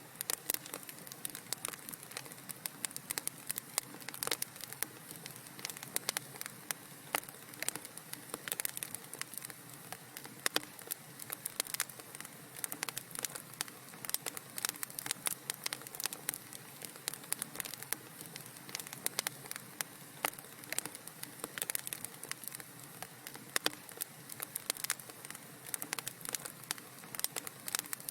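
Wood fire crackling in a fireplace: dense, irregular snaps and pops over a soft steady hiss.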